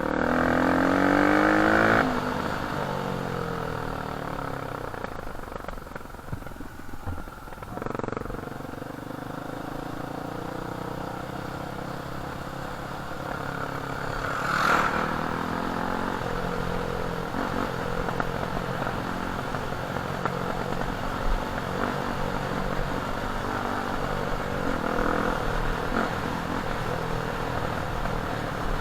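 Dirt bike engine running while riding, its pitch rising and falling with the throttle. It revs hardest in the first two seconds, and there is a brief sharp loud moment about fifteen seconds in.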